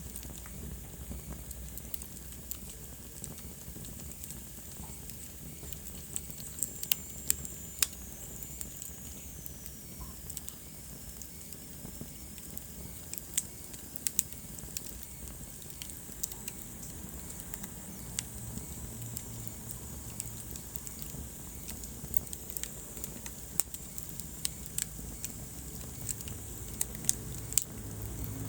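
Wood fire crackling in a fireplace: irregular sharp pops and snaps over a steady low rumble and soft hiss of burning. A faint high whistle slides slowly downward from about seven to eleven seconds in.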